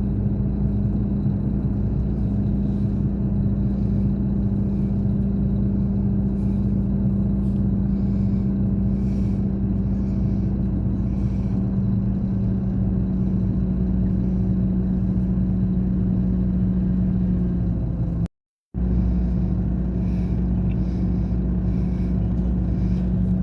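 Scania K420 bus engine running steadily at a constant speed, with an even, unchanging hum. The sound cuts out completely for about half a second near the end, then carries on unchanged.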